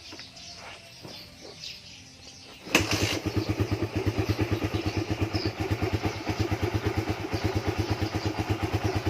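Suzuki Raider 150's single-cylinder four-stroke engine kick-started from cold with no throttle or choke, catching suddenly about three seconds in and settling into a low, steady idle. The idle mixture screw has been turned half a turn richer, and the cold engine now holds its idle on its own. Faint bird chirps come before it catches.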